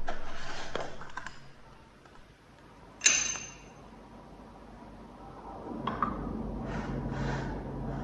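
A single sharp click with a short ring about three seconds in, then softer rustling and scraping as small hard objects are handled.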